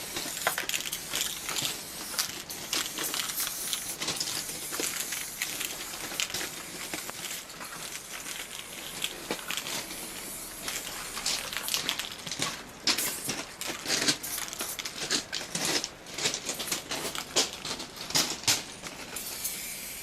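Aerosol spray paint cans hissing in repeated short and longer bursts, the sound of graffiti being sprayed.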